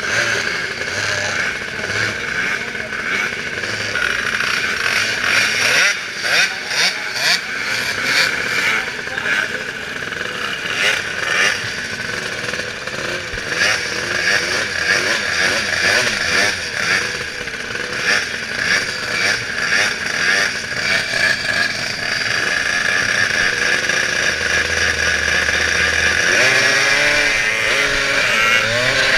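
Monster truck engines revving hard, the revs rising and falling in quick pulses and then sweeping up and down near the end, over a steady arena din.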